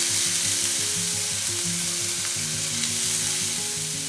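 Sliced peppers and courgettes sizzling steadily in a hot frying pan, with background music playing underneath.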